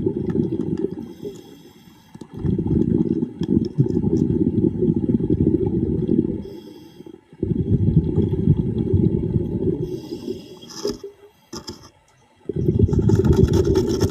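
A diver breathing underwater: long rumbling bursts of exhaled bubbles, three times, each broken by a short, quieter inhaling hiss.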